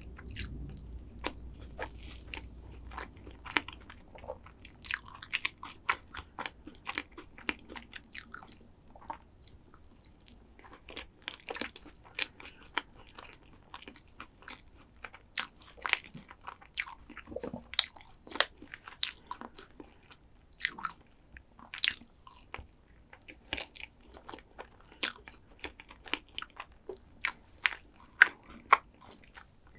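Close-miked eating of chocolate desserts: biting and chewing with crisp crunches. Many short, sharp sounds come at irregular intervals throughout.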